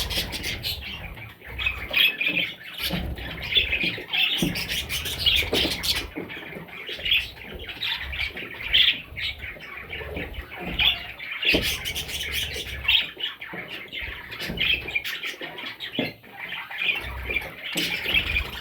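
Budgerigars chirping and squawking continuously in many overlapping short, high calls, with occasional low thumps.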